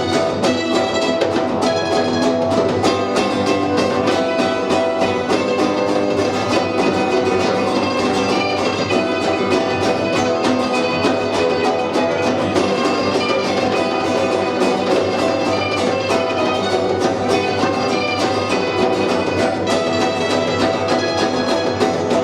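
A punk rock band playing a song live, loud and steady without a break.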